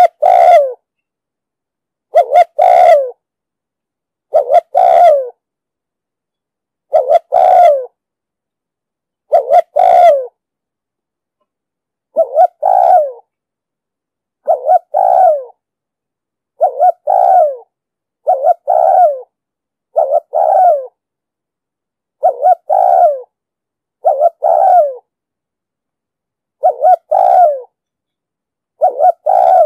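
Spotted dove cooing: short two-part coos, a brief note then a longer falling note. They repeat about every two seconds, a little faster in the second half.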